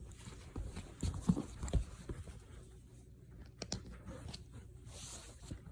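Rustling and soft knocking as a tight dog harness is worked onto a dog, with the loudest bumps about a second in and a couple of sharp clicks near the middle.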